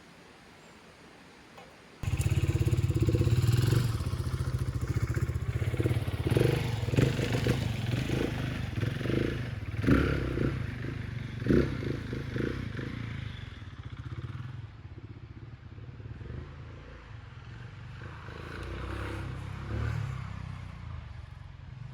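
Husqvarna 701 Enduro's big single-cylinder engine starting abruptly about two seconds in and running, with a few louder throttle blips, then growing quieter in the second half.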